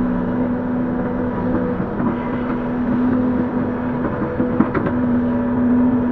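Link-Belt 145X3E hydraulic excavator running under working load, a steady engine and hydraulic drone with a held tone. The tone breaks off briefly a little past the middle, with a couple of sharp knocks, then returns.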